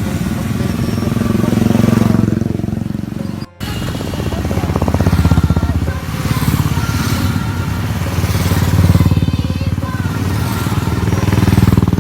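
Motorcycles riding past in a stream, their engines swelling and fading several times as bikes go by. The sound drops out for a moment a few seconds in.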